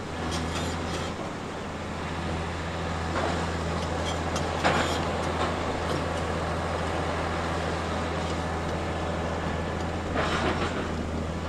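Tracked construction machine's diesel engine running steadily, with intermittent metallic clanks and scraping from its tracks and blade or bucket. The loudest is a sharp clank near the middle.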